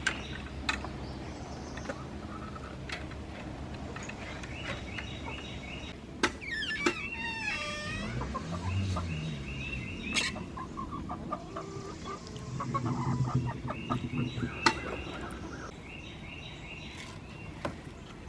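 Hens clucking steadily in a coop, with a few sharp knocks and one higher swooping call about seven seconds in.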